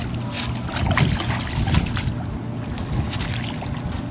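Wind buffeting the microphone over a steady low rumble, with scattered sharp clicks.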